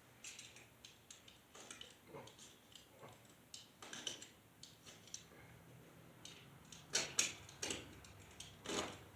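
Irregular light clicks and knocks, a few a second, with a louder cluster about seven seconds in and another near the end.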